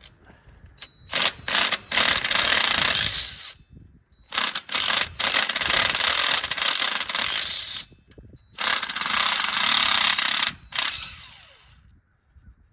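Power impact wrench hammering on the exhaust header's 14 mm bolts and studs in three long runs of a few seconds each, every run led by a few short trigger blips.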